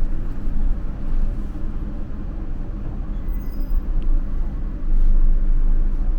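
Bus engine running, heard as a steady deep rumble inside the passenger cabin, growing a little louder about five seconds in.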